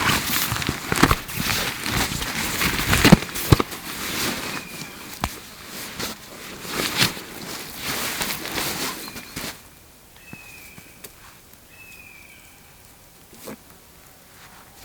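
Footsteps crunching and rustling through dry vegetation, with many sharp crackles, for about nine seconds; then it goes quiet apart from two short falling whistles.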